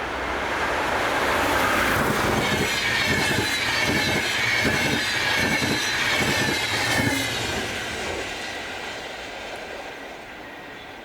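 A train passing close by. It grows louder as its wheels clack over the rail joints in a quick irregular run, with a high wheel squeal sliding down in pitch, then fades away.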